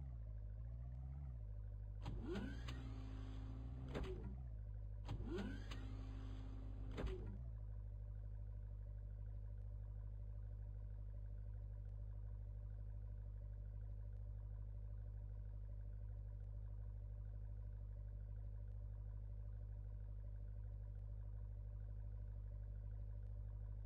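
A small electric motor whirs twice, each time for about two seconds, over a faint steady low hum.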